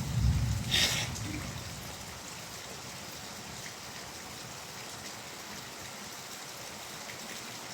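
Steady rain falling: an even hiss with scattered drop ticks. A low rumble fades out in the first second or so, with a brief rush of noise just before it ends.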